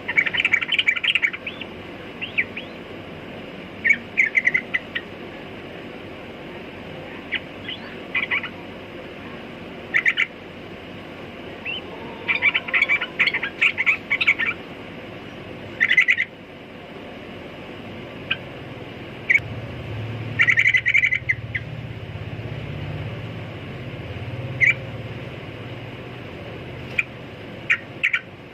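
Yellow-vented bulbul (trucukan) singing in short bursts of quick chirping notes every second or two, over a steady background hiss. A low rumble runs underneath for several seconds in the second half.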